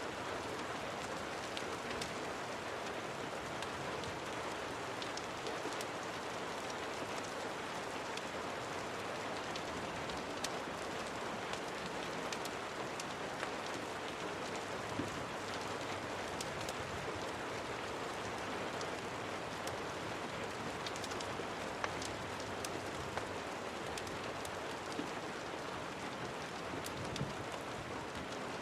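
Steady rain falling, with scattered sharp ticks heard through the constant hiss.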